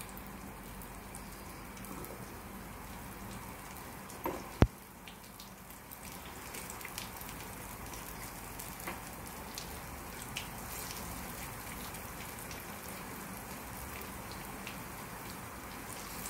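Masala-coated brinjal slices frying in hot oil on a tawa: a steady light sizzle with scattered small crackles and pops. A single sharp click about four and a half seconds in is the loudest sound.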